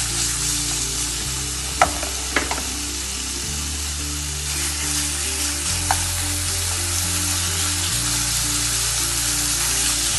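Marinated chicken strips sizzling steadily as they sauté with garlic paste in hot oil in a pan. A few sharp clicks stand out, twice around two seconds in and once near six seconds.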